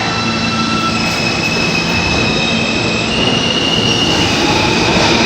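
New York City subway train running, a steady loud rumble with high-pitched wheel squeal whose pitch shifts a couple of times, growing slightly louder near the end.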